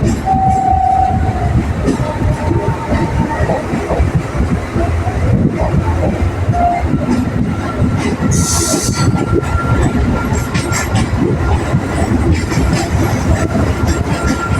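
Electric local train (EMU) running at speed: a steady rumble with irregular wheel clatter over the rails. A short high hiss comes about eight seconds in, and a faint steady whine sounds through the later part.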